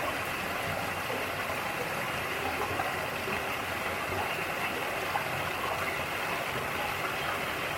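Mountain valley stream running over rocks: a steady, even rush of water.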